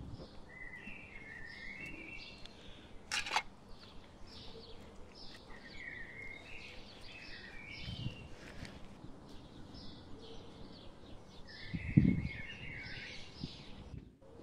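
Small birds chirping and calling over and over, short high notes and brief sliding phrases. A sharp click comes about three seconds in and a dull low thump about twelve seconds in, which is the loudest sound.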